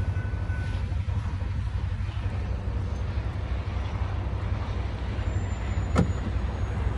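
Freight train moving off down the line: a steady low rumble with a faint hiss above it, and a thin high tone that fades out within the first second. One sharp click about six seconds in.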